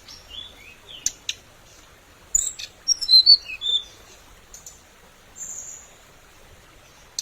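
A hồng hạnh songbird singing in loose bursts: short chirps, sharp ticking notes and quick whistled slurs, busiest about three seconds in, with a thin high note held briefly near the end. This is the bird's song as used for a decoy (mồi) call.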